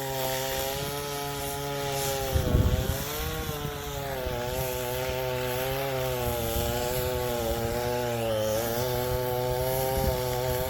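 Stihl chainsaw running steadily under load as it cuts into a dead hardwood tree to fell it, its pitch dipping slightly as the bar bites. A gust of wind rumbles on the microphone about two and a half seconds in.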